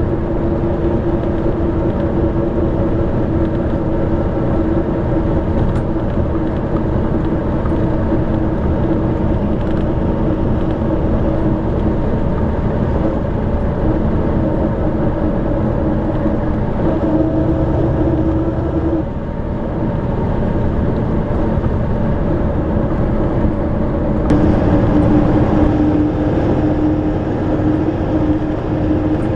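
YaMZ diesel engine of an Ikarus-250 coach running steadily under way. Its pitch climbs for a couple of seconds about two-thirds through, then falls away with a brief dip in level. It grows louder again from about 24 seconds in.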